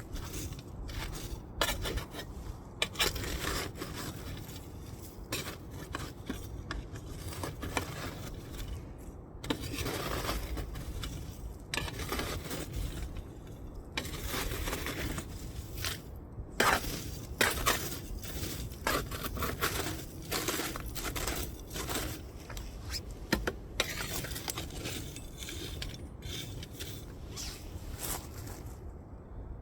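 Wood fire burning, crackling and popping irregularly with sharp snaps over a low steady rumble.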